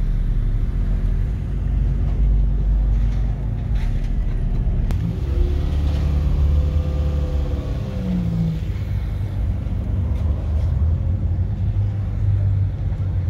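Car engines running with a steady low rumble. About five seconds in, one engine's note rises and falls for a few seconds.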